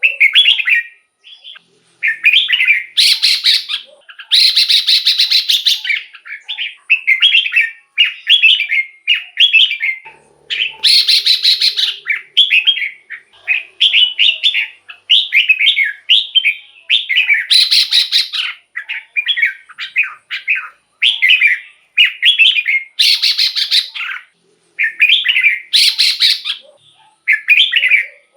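Red-whiskered bulbul singing: a steady run of short, clear whistled phrases, broken about every few seconds by harsher, buzzy notes.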